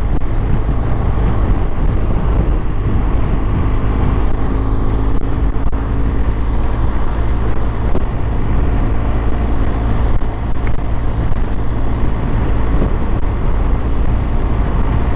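BMW R1200 GS boxer-twin engine running steadily at road speed under a constant low rumble of wind and road noise on the microphone.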